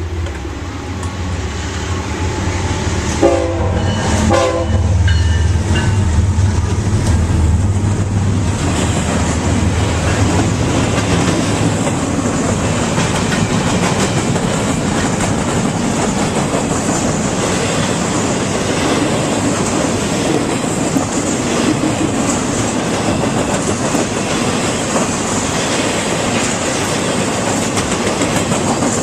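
Diesel train passing close by: the locomotive horn gives two short blasts about three seconds in over the low engine rumble, then a steady rush and clickety-clack of wheels on rails as the cars roll past.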